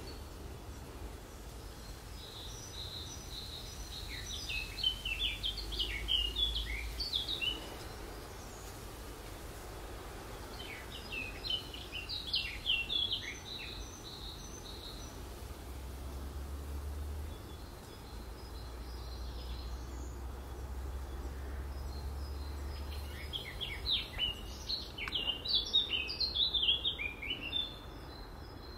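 A songbird singing three bouts of quick, high chirping notes over a steady low background rumble.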